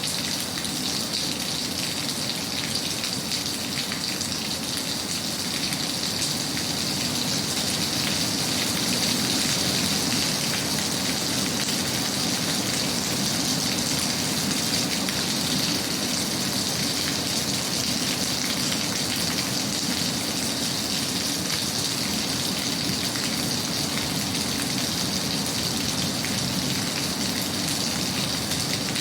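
Steady rain falling, an even wash of noise that keeps up throughout.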